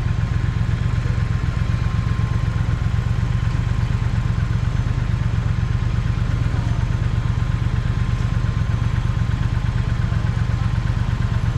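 Triumph Speed Twin parallel-twin motorcycle engine running steadily at an even pace, its exhaust pulses low and regular with no revving.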